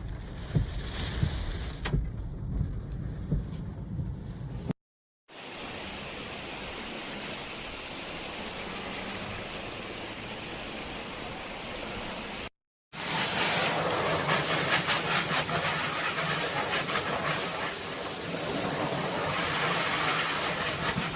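Steady noise of typhoon rain and flowing water, in three stretches broken by two brief total silences, with low wind buffeting on the microphone in the first. The last stretch is the loudest.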